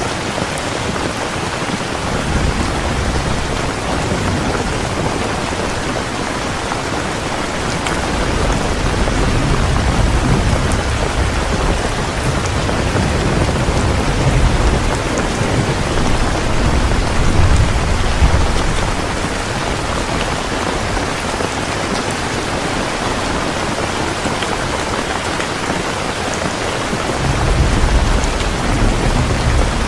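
Heavy rain pouring steadily, with thunder rumbling low several times, most strongly in the middle and again near the end.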